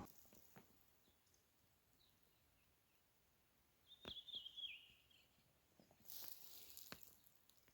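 Near silence outdoors, with one short warbling bird call about four seconds in. There are a few faint clicks and a brief rustle near the end.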